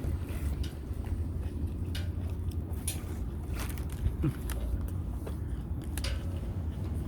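A person chewing a mouthful of a chicken snack wrap, with a few short crunchy clicks, over a steady low hum.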